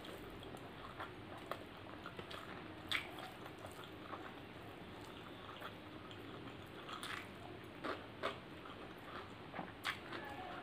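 Close-up chewing and mouth sounds of a person eating egg fried rice and mutton curry by hand, with scattered short clicks and smacks, the sharpest about three seconds in and a few more near the end.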